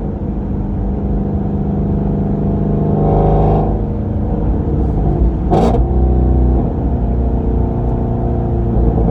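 Shelby GT350's flat-plane-crank V8 cruising through a straight-through exhaust (resonator delete, off-road mid pipes, exhaust valves open), a steady loud drone whose pitch shifts about three and a half seconds in. A little past halfway comes one sharp crack: an exhaust backfire.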